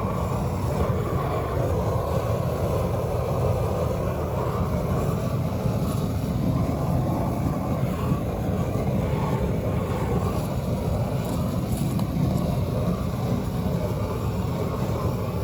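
Flame-thrower torch burning steadily, a constant rushing noise with no breaks, as it is played over a faded plastic bumper to restore it.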